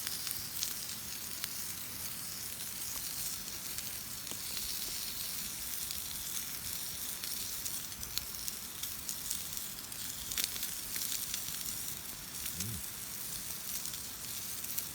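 Food sizzling over a campfire: a steady hiss with sharp crackles now and then.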